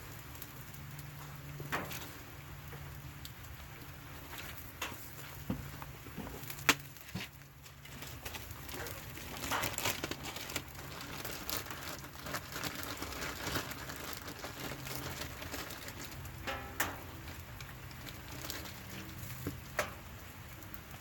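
Wood campfire crackling, with sharp pops now and then, under a steady patter of rain.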